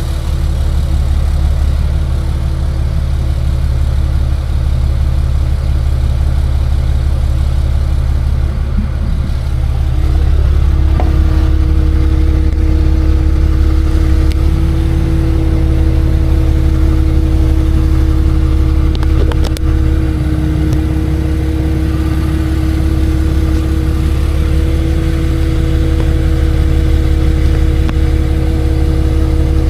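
Tow truck's engine running: a steady low drone with a steady whine above it, which gets louder and rises slightly in pitch about ten seconds in.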